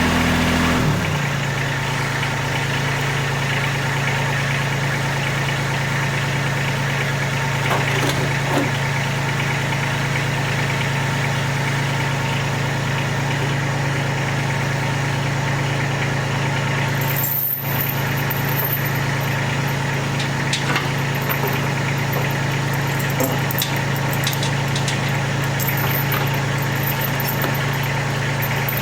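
Tractor engine running steadily, its pitch shifting about a second in and then holding even. A few light knocks sound over it.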